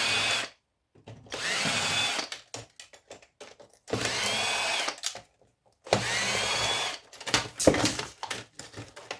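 A cordless drill-driver run in short bursts of about a second each, the motor whine rising and falling with each run, as screws are backed out of old electronics being dismantled. Near the end, a few clicks and knocks of parts being handled.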